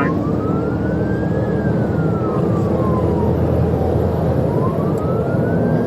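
Police car siren in a slow wail, rising and falling about once every three to four seconds, over heavy road and engine noise from the patrol car at pursuit speed.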